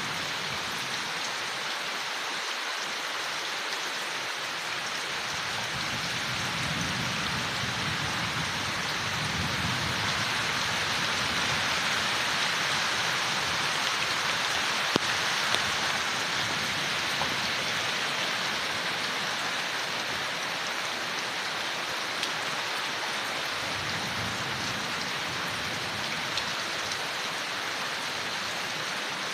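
Steady rain falling on leaves, as an even hiss that grows a little heavier in the middle, with a few sharper drop ticks.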